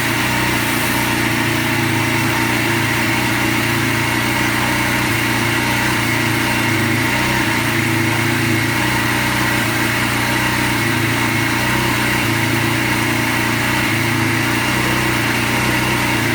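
Gas-engine pressure washer running steadily at a constant speed.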